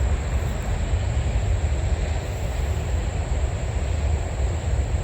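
A steady low rumble with a constant thin high-pitched tone above it.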